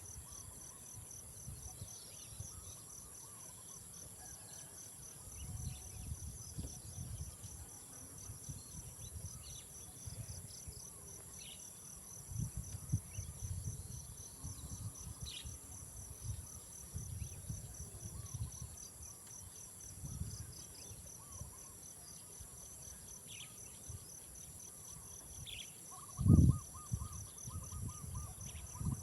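Insect chorus of a steady high-pitched hiss over a rapid pulsing trill, with scattered short chirps. Intermittent low rumbling comes and goes, and a single thump sounds near the end.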